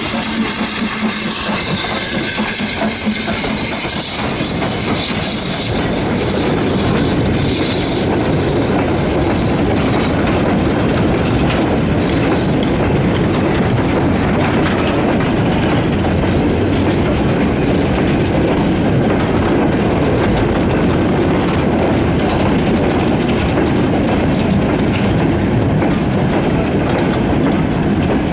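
Steam-hauled goods train passing behind BR Standard Class 9F 2-10-0 92214, its wagons' wheels clattering over the rail joints. A steady rumble that grows louder a few seconds in.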